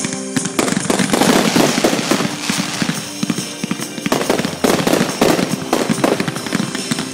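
Fireworks finale: a dense, rapid barrage of bangs and crackling pops, with no gaps. It eases slightly, then picks up again with a fresh cluster of louder bangs about four seconds in.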